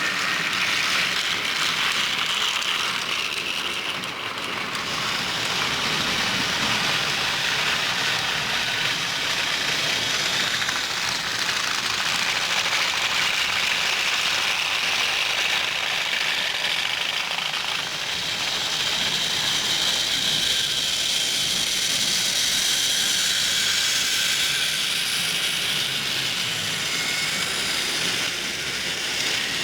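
Several toy trains running on their track together: a continuous clatter of wheels and small motors whining, the whine drifting slowly up and down in pitch.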